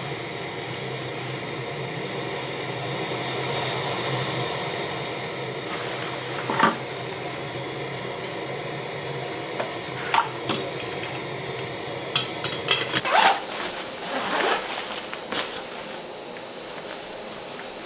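Metal cookware clinking and knocking a few times while tea is being made, over a steady hiss. A low steady hum under it cuts off about two-thirds of the way through, followed by a busier run of clinks.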